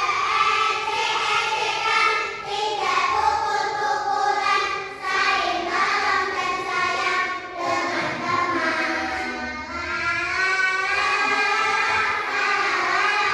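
A class of young children singing a song together in unison, loud and continuous.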